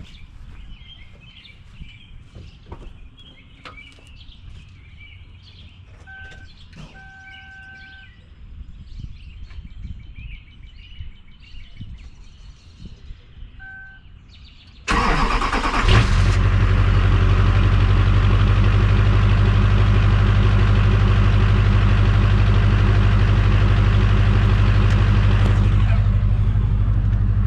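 Birds chirping and an electronic chime beeping a few times, then about halfway through a Chevrolet Silverado's Duramax turbo-diesel engine cold-starts: it fires suddenly and settles into a loud, steady idle.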